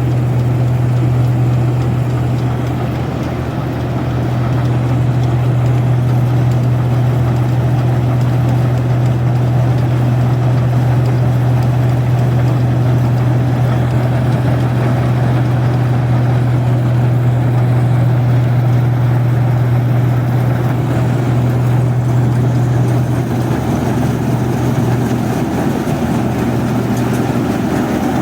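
Rice combine harvester's engine running steadily with a strong low hum, easing off slightly about four seconds in and again near the end.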